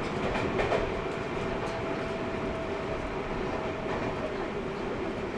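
Train running sound inside a Seibu 6000 series renewal car, a GTO-VVVF inverter train: a steady rumble of wheels and track with a steady whine that stops about four seconds in, and a few light clicks near the start.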